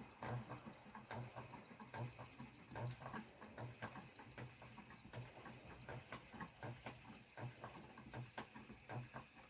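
Spinning wheel being treadled, giving a faint, regular low thump a little under twice a second, with light clicks and rattles from the wheel's moving parts.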